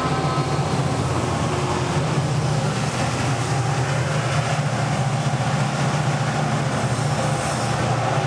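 Amtrak electric train passing at high speed: a steady, loud rush of wheels on rail and wind, with a low hum underneath.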